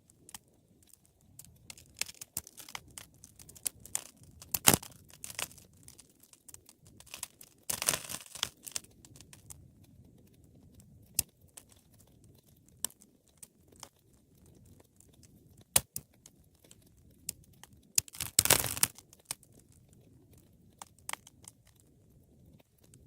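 Wood fire crackling: irregular sharp pops and snaps over a soft, low, steady noise of burning. There are two denser bursts of crackling, about eight seconds in and again around eighteen seconds.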